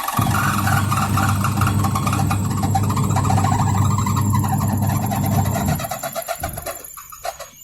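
Semi-automatic washing machine's electric motor switched on and running with a strong mains hum, a wavering squeal over it, then cut off and winding down about six seconds in. The motor turns now that its faulty capacitor has been replaced; the squeal in the spin is later traced to a dry, ungreased buffer.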